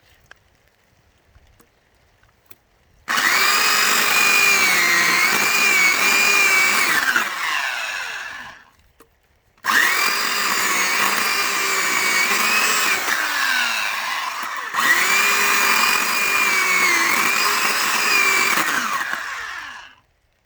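A 1700-watt electric saw cutting pine firewood, run three times: it starts about three seconds in, stops, restarts near the middle and runs almost to the end with a short break partway. The motor pitch sags and recovers as the blade bites into the wood.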